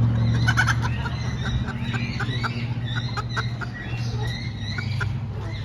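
Many caged chickens clucking and giving short, quick calls that overlap one another, over a steady low hum.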